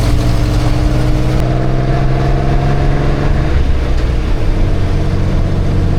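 Taxi's engine running on the move over road noise. Its note rises slowly, then drops away about three and a half seconds in.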